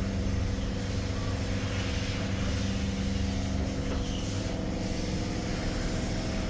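A steady low machine hum, like an idling engine or motor, holding a few constant tones without change.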